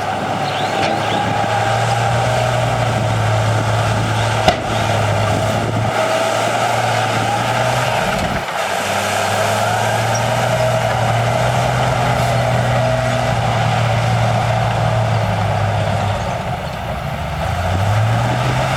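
Heavy diesel engine of earthmoving machinery running under load, its pitch shifting, with one sharp clank about four and a half seconds in. The engine revs up near the end.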